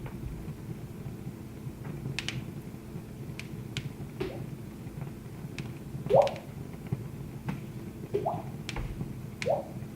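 Wood fire crackling in a fireplace: irregular sharp snaps and pops over a low steady rumble, with the loudest pop about six seconds in.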